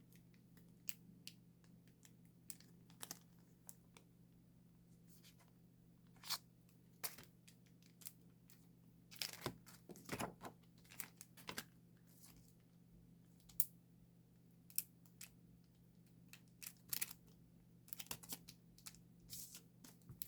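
Photocards and plastic sleeves being handled: faint, irregular crinkling and rustling with light clicks and taps, busiest about halfway through and near the end, over a steady low hum.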